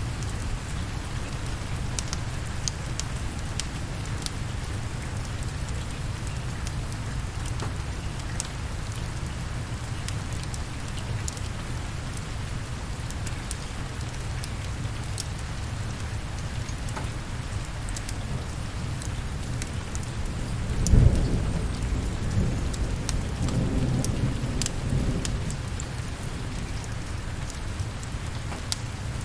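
Steady rain with scattered sharp crackles. About two-thirds of the way through, a sudden loud thunderclap breaks in and rumbles on for several seconds before fading back into the rain.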